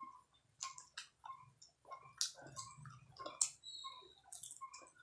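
Close-up eating sounds of a person biting and chewing a fried chicken lollipop: irregular sharp mouth clicks and smacks.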